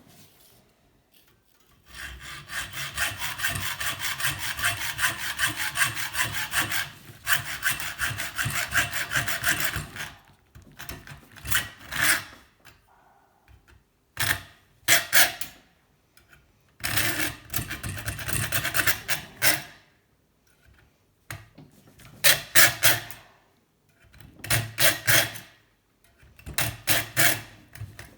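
Hand saw cutting through the metal sheath of a scrap kettle heating element: a long run of quick strokes, then several short bursts of sawing with pauses between.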